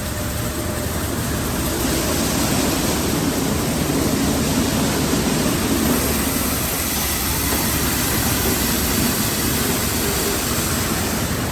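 WashTec automatic car wash tunnel equipment running: a loud, steady rushing hiss, which grows louder about two seconds in.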